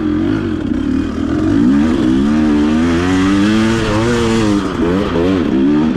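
Enduro dirt bike engine running loudly, its pitch rising and falling repeatedly as the throttle is worked.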